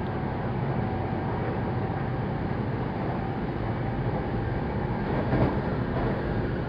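Running noise of a Saikyo Line commuter electric train heard from inside the passenger car at speed: a steady rumble of wheels on the rails with faint steady tones over it. There is a brief louder swell about five seconds in.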